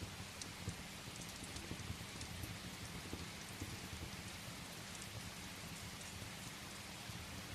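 Steady rain falling, with scattered sharp little clicks throughout.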